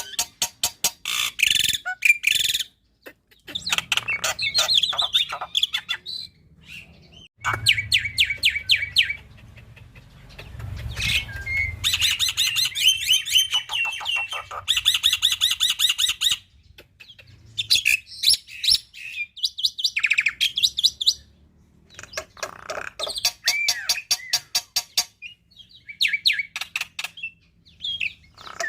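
Black-winged myna (jalak putih) singing a varied song: bursts of rapid repeated notes and chatter mixed with short gliding whistles, broken by brief pauses.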